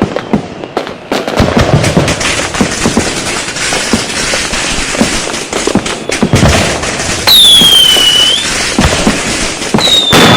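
Dense, continuous barrage of firecrackers and fireworks bursting in rapid, irregular succession. About seven seconds in a shrill whistling firework falls in pitch for about a second, and another whistle begins near the end.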